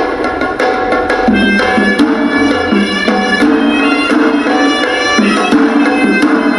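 Hewisi temple music: the reedy horanewa pipe plays a wavering, held melody over quick, dense strokes of the traditional davul and tammattama drums.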